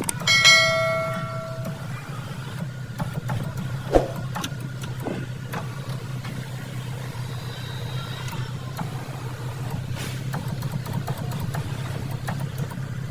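Car engine idling with a steady low hum. A short ringing chime sounds just after the start, and a sharp click comes about four seconds in.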